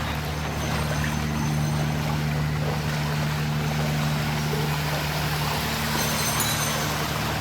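An engine running steadily with a constant low drone, over an even rushing of water.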